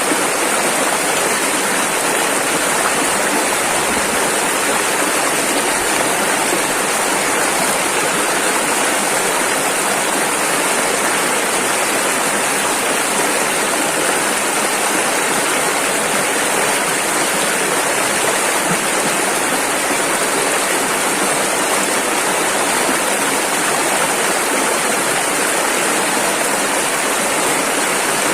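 Rushing river water, a fast-flowing rapid, making a steady, loud, unbroken rush with a hissy top.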